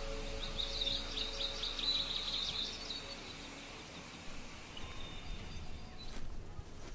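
Small birds chirping in a quick run of high notes during the first few seconds, over a steady outdoor hiss. A few faint clicks come near the end.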